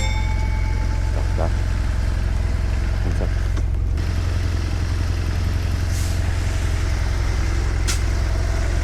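Triumph Bonneville T100's parallel-twin engine running steadily at an even, low note, with a hiss of wind or rain over it.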